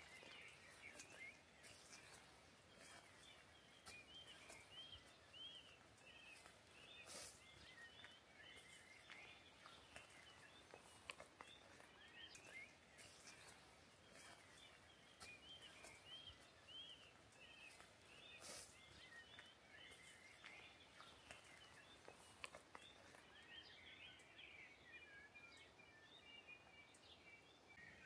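Faint birdsong: small birds calling with many short, high chirps all through, over a quiet background hiss, with a couple of faint clicks.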